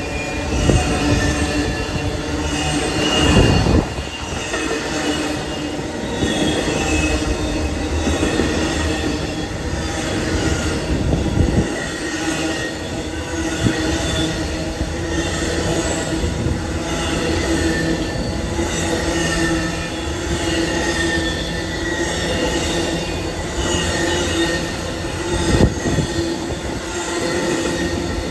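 Train rolling past with its wheels squealing on the rails: several wavering squeal tones throughout, broken by a few single knocks from the wheels.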